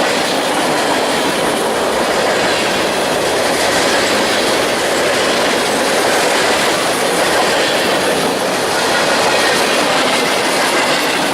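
A train's cars rolling past close by: a steady, loud rush of steel wheels running on the rails.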